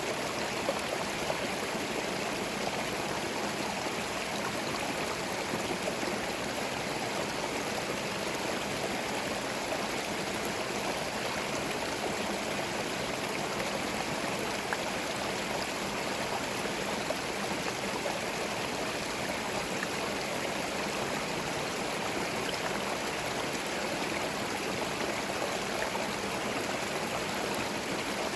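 Forest stream running steadily, water splashing and gurgling over stones in an even, unbroken rush.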